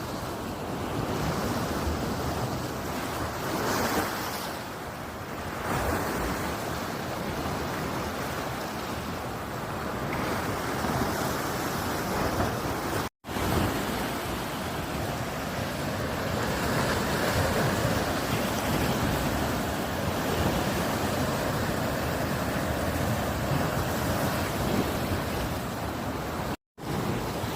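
Sea surf washing onto a beach, with wind buffeting the microphone. The sound cuts out for an instant twice, about thirteen seconds in and near the end.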